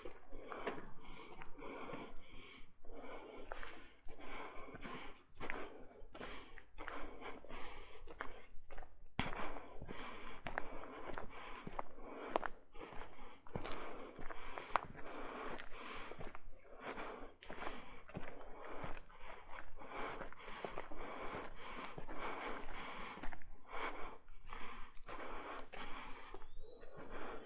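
Footsteps crunching and rustling along a dirt and rock trail, a few rough scuffs a second, picked up harshly by an action camera's built-in microphone.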